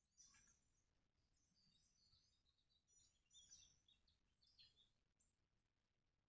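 Faint birdsong: scattered short, high chirps and trills, a few of them sliding down in pitch, with the loudest cluster about halfway through.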